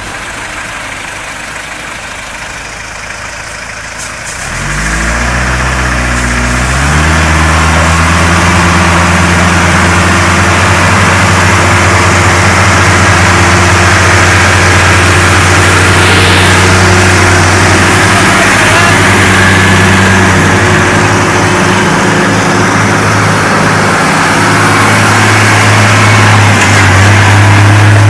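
A vehicle engine climbs in revs about five seconds in, then runs loud and hard at high, steady revs, with a dense rushing noise over it.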